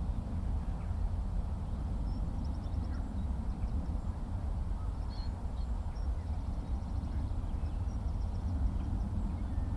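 Outdoor ambience dominated by a steady low rumble. Faint, high, rapid bird trills and chirps come through a few times over it.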